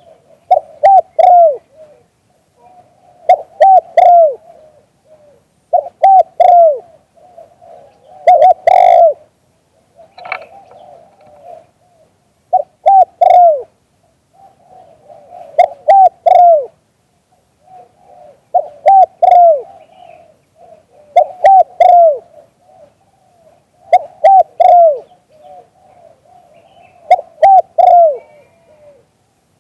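A dove cooing loudly at close range. It gives repeated phrases of three or four short coos that fall in pitch, one phrase every few seconds, with a longer pause about ten seconds in.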